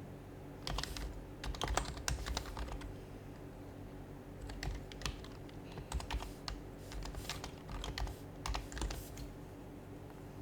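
Typing on an HHKB Professional HYBRID Type-S keyboard, its Topre keys giving soft, muted clicks. The keystrokes come in two runs, one of about two seconds and one of about four, with a short pause between them.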